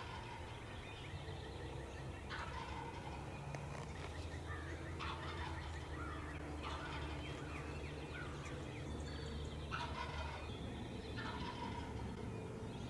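Wild turkey gobbler gobbling several times as it comes in toward the hunters.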